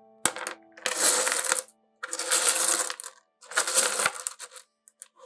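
Small pieces of rough opal rattling and clinking against each other in a tray, in four bursts of clatter each up to about a second long.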